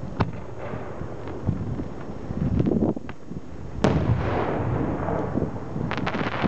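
Aerial firework shells bursting: a loud bang a little under four seconds in, followed by a long crackling tail, then a rapid string of sharp pops near the end, with scattered cracks earlier.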